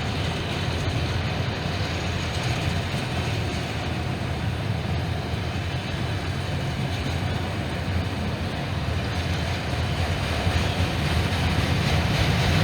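Norfolk Southern train rolling past, a steady heavy rumble that grows a little louder near the end.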